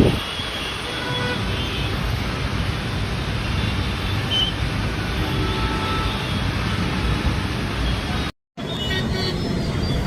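Road traffic in a jam: a steady wash of engine and tyre noise with short horn toots here and there. The sound cuts out completely for a moment about eight seconds in, then resumes.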